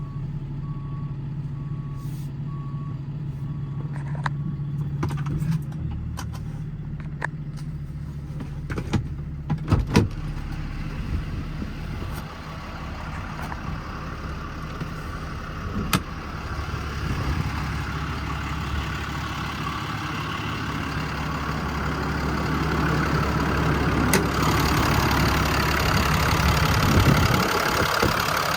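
The 2015 Ram 5500's 6.7-litre Cummins inline-six turbo diesel runs steadily while a backup alarm beeps for the first few seconds. The engine note changes, a few sharp clicks and knocks follow, and then engine and road noise builds steadily as the truck gets under way.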